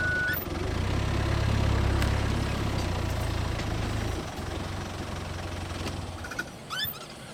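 Game-drive vehicle's engine running as the vehicle moves forward, loud for about four seconds, then lower and fading out about six seconds in. A short high chirp comes near the end.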